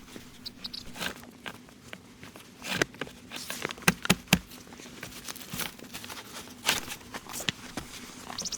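Irregular knocks, taps and rustles of something being handled or worked, over a faint steady hum. A bird chirps faintly near the start, and a rapid high trill begins near the end.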